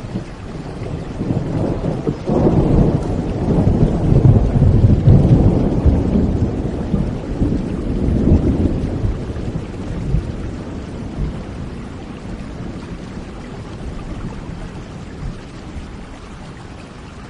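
Thunderstorm: steady rain with a roll of thunder that breaks sharply about two seconds in, rumbles loudly for several seconds and slowly fades, leaving the rain.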